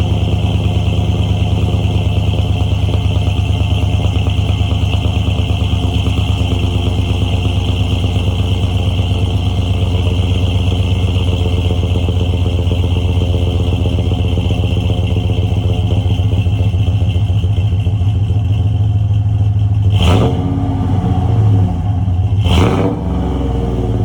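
2013 GMC Sierra 1500 engine idling steadily through an MBRP aftermarket exhaust with long-tube headers, after a cold start. Near the end the throttle is blipped twice in quick revs, a couple of seconds apart.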